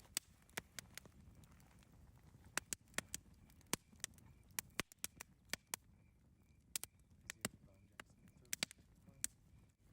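Campfire crackling: irregular sharp pops and snaps, several close together at times, over a low steady rumble. Faint short high chirps recur in the background.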